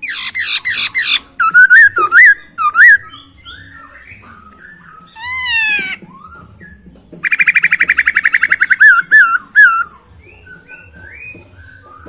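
Chinese hwamei (melodious laughingthrush) singing loud, clear phrases. It opens with a fast trill, then gives ringing whistled notes and a falling note. About seven seconds in comes a long rapid trill, which ends in more whistled notes.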